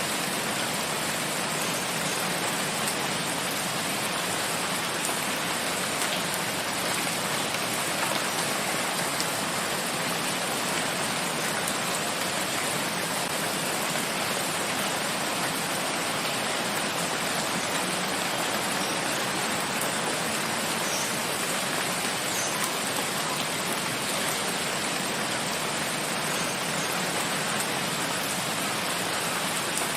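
Steady rain falling in a forest: an even, unbroken hiss of rainfall.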